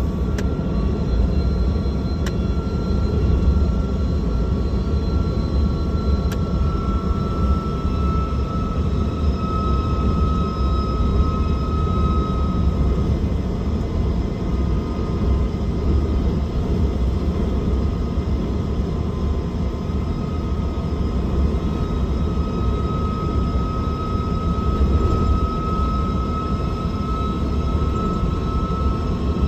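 Heavily loaded Scania truck braking downhill on its retarder: a steady low rumble with a thin whine above it that drifts slightly in pitch.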